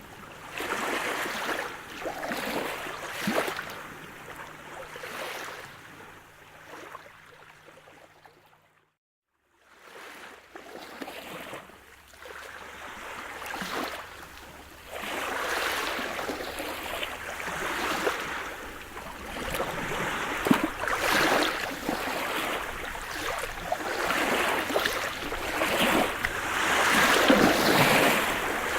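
Sea surf: waves breaking and washing in, swelling and ebbing every few seconds. The sound cuts out completely for about a second near a third of the way in, and after that the waves come in louder.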